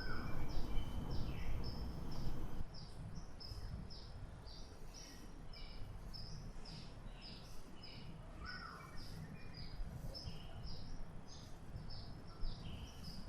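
Birds chirping: a steady series of short high chirps, about two or three a second, with a few lower calls now and then, over a low background rumble.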